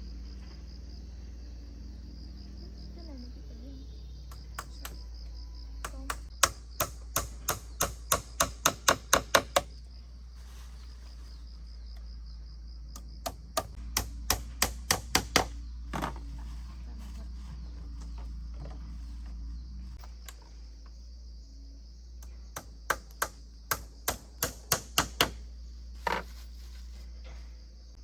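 Hammer driving nails, in three runs of sharp blows that speed up to about three a second, with a steady chorus of insects behind.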